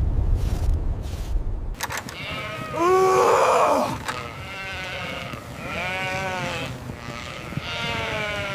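A sheep bleating three times, the first bleat the loudest, after a low rumble that stops about two seconds in.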